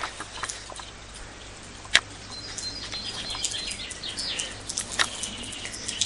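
Small birds chirping repeatedly in short high calls. Two sharp clicks stand out, about two seconds in and about five seconds in.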